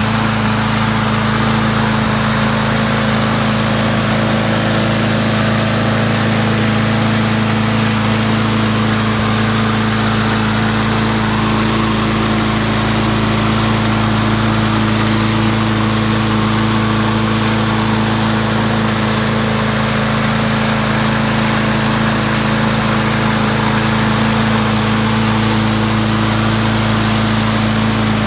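Yardworks lawn mower's small engine running at a steady speed, its severely bent crankshaft straightened with a sledgehammer.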